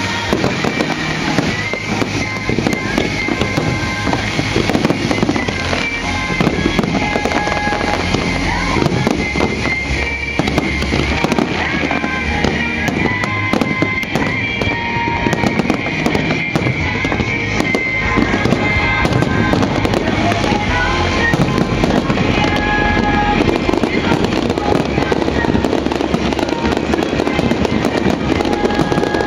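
Fireworks show with shells going off in a dense, continuous barrage of bangs and crackles, while show music plays alongside.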